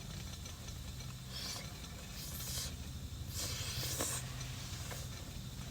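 Canister gas reactor stove being lit: gas hissing in three short bursts with a click, over a steady low rumble.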